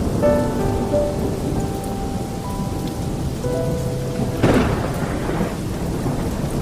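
Steady heavy rain with deep rolling thunder, and a sharper thunderclap about two-thirds of the way through. Soft held musical tones float faintly above the rain.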